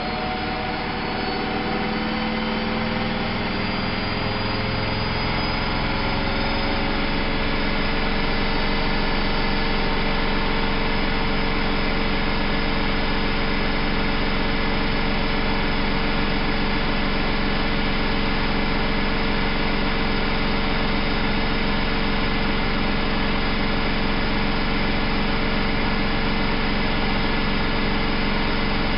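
Bauknecht WAP 6460 front-loading washing machine spinning: the drum motor's whine rises in pitch for the first several seconds as it speeds up, then holds steady at full spin speed. The owner says the drum bearing has play.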